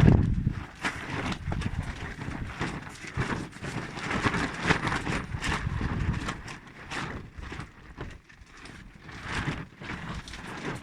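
Strong gusty sea wind buffeting the microphone, with a loud low rumble at the start that eases into irregular crackling and rustling, fading somewhat toward the end.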